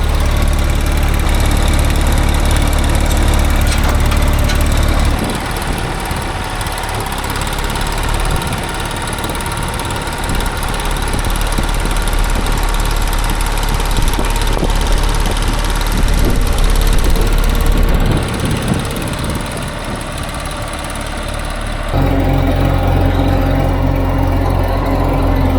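The Allis-Chalmers HD5 bulldozer's GM two-stroke diesel engine running steadily. About five seconds in the sound changes abruptly to a rougher, unsteady running, and near the end it returns abruptly to the steady running.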